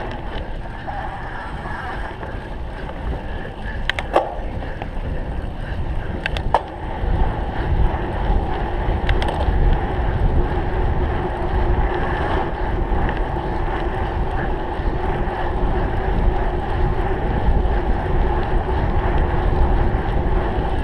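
Cyclocross bike being ridden over a rough course: a steady rumble of wind on the microphone and tyre and frame rattle, with a few sharp knocks about 4 and 6 seconds in.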